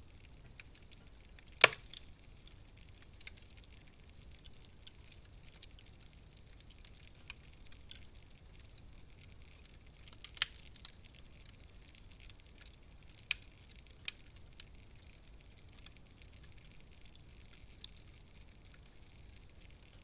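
Wood fire crackling in a fireplace: scattered sharp pops and snaps over a faint low hiss, the loudest pop about two seconds in and a few more spread through.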